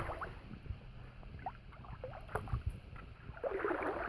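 River water sloshing and swishing around a person's legs as he wades through a deepening river crossing, with a louder swish near the end.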